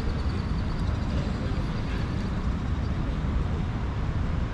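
Steady city street traffic noise with a heavy low rumble of passing vehicles.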